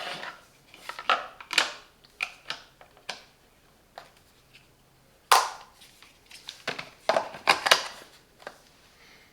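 Ground coffee being spooned into a coffee machine's filter basket: irregular scraping, tapping and clicking of the spoon and plastic parts. The loudest knocks come about five seconds in and again a couple of seconds later.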